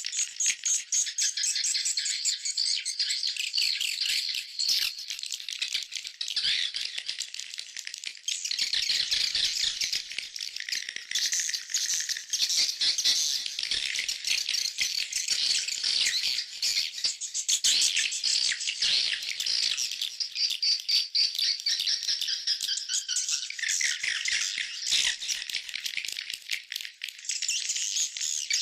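Swiftlets twittering: dense, rapid, overlapping chirps, the swiftlet call sound used to draw the birds into a swiftlet house.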